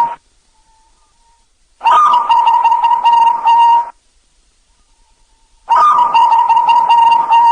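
Zebra dove (perkutut) cooing: two full phrases of rapid, rolling coos, each about two seconds long, with short quiet gaps between.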